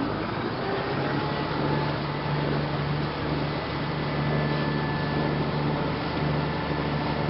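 An engine running steadily: a constant low droning hum over a rushing noise.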